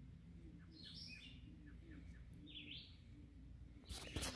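Faint songbird calls: a short high phrase that drops in pitch, repeated about every two seconds. Near the end, loud rustling and knocks as the phone is handled and moved.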